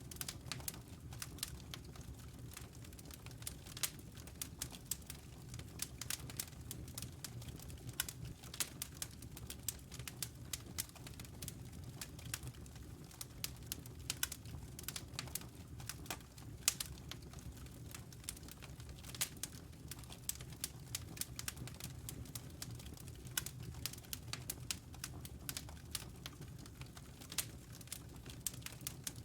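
Wood fire crackling in a fireplace, with frequent irregular sharp pops and snaps over a low steady rumble.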